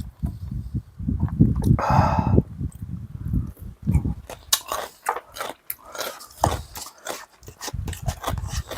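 Close-up chewing and crunching of kkakdugi (crunchy cubed radish kimchi) in the mouth, with many sharp clicks throughout. A short pitched sound comes about two seconds in.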